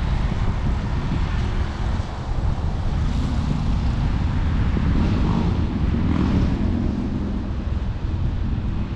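Wind buffeting an action camera's microphone while cycling: a steady low rumble, with a faint low hum about six seconds in.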